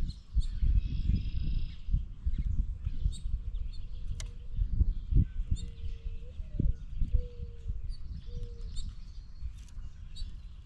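Birds chirping and squeaking, with a string of short, low, steady-pitched notes and heavy low rumbling and knocks close to the microphone.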